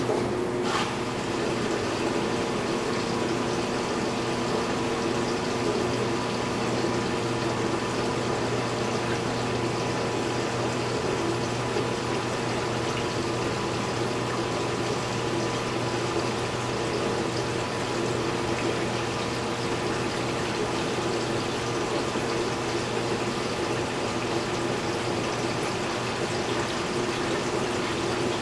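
Speed Queen top-load washing machine filling its tub with water: a steady rush of incoming water with a low hum, after a click right at the start.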